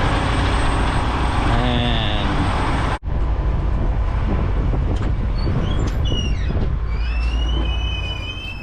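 Diesel truck engines running at a truck lot: a loud rushing noise for about three seconds, then a steady low rumble with a thin high squeal near the end.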